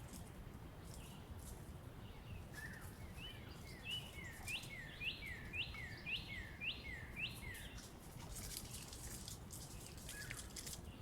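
A songbird sings a clear two-note phrase, repeated about eight times at roughly two per second, over a steady low rumble of outdoor background noise. A few faint ticks or rustles follow near the end.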